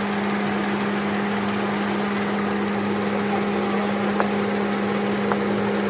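Suzuki Cultus engine idling low and rough with a steady drone, missing on one cylinder. Two faint clicks come about four and five seconds in.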